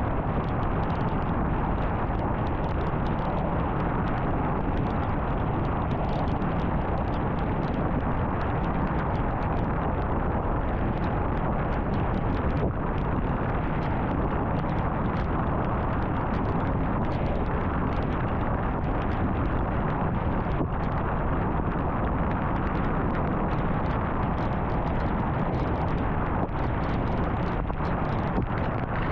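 Steady road noise of a car cruising on a highway: a constant rush of tyres and wind with a low rumble, with no change in level.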